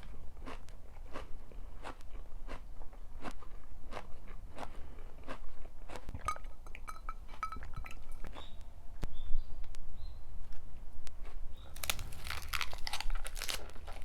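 Close-up chewing of crunchy food, a steady rhythm of about three crunches a second, with a denser, louder bout of crunching near the end.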